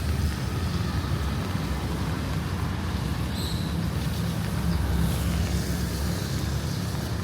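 Street traffic: a steady low rumble of vehicles with an even hiss over it, and a brief faint high chirp about three and a half seconds in.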